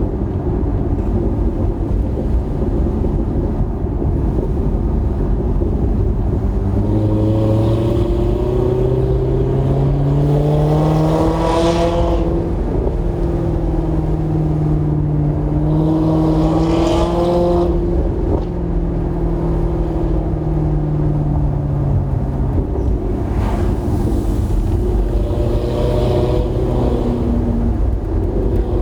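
2008 Maserati GranTurismo's 4.2-litre V8 running through a Kreissieg aftermarket exhaust, its engine note climbing and dropping several times, with the biggest climbs about a third of the way in and again just past halfway.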